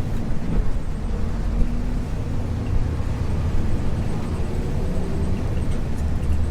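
Interior running sound of a 1994 Isuzu U-LV224N bus: its 6QB2 diesel engine running steadily under a low rumble of road noise.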